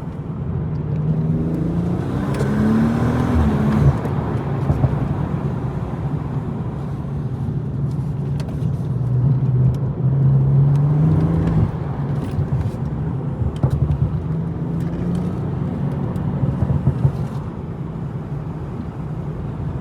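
BMW M240i's turbocharged straight-six engine pulling along a winding road, its note rising as the revs climb about two seconds in and again around ten seconds, each time falling away sharply, with a steady drone between.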